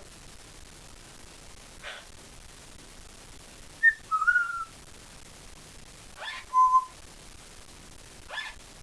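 Congo African grey parrot whistling and chirping: a few short sweeping chirps and brief whistled notes, the loudest a wavering whistle about four seconds in and a short steady note near seven seconds.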